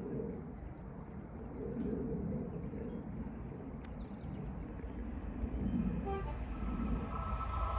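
An approaching train heard over a steady low outdoor rumble, with a few soft low calls. In the last couple of seconds a rising hiss and whine grow as the train nears.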